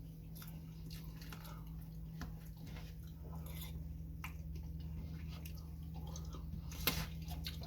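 A person chewing and eating poutine, with small wet mouth clicks scattered throughout over a steady low hum.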